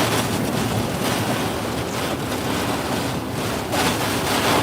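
Severe supercell storm winds gusting hard around a stuck truck, buffeting the microphone: a loud, steady rush of noise that swells slightly near the end.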